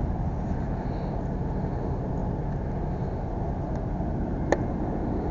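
Steady low rumble of an idling vehicle engine, with one sharp click about four and a half seconds in.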